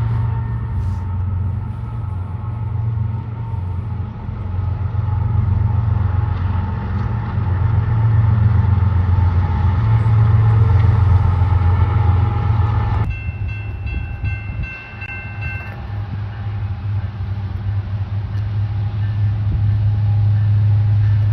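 Train running past with a steady, loud low rumble of diesel locomotive engines. After an abrupt cut about two-thirds of the way through, a train horn sounds one held chord for about three seconds.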